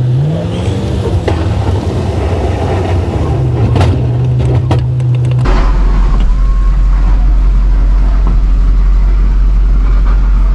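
Plow truck's engine running, its pitch rising about a second in and then holding steady. About halfway through the sound changes to a steady low rumble.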